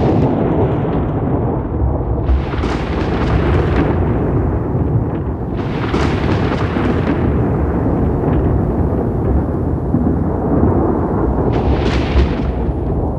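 Thunder rumbling continuously and deeply, with sharper crackling peals breaking through about two, six and twelve seconds in.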